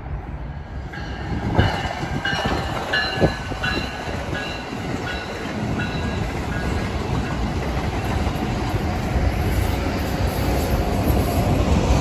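A train rolling past, its wheels knocking over rail joints, with short high metallic squeals in the first few seconds. The rumble grows louder toward the end.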